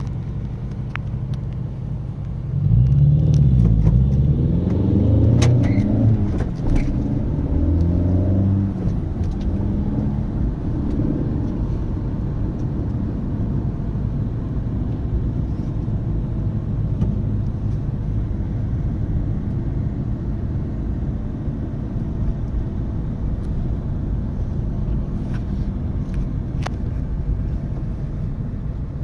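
Car engines of speed-limited A-tractors (cars converted for 16-year-old drivers). Between about 3 and 9 seconds in, several engines rev at different pitches at once, louder; then a steady engine rumble.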